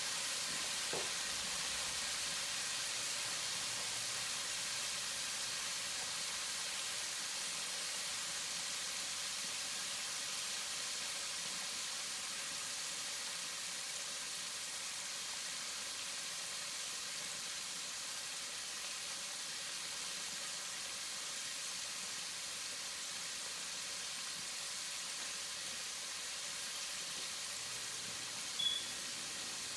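Chicken wings sizzling steadily as they deep-fry in hot grease, with one brief sharp pop near the end.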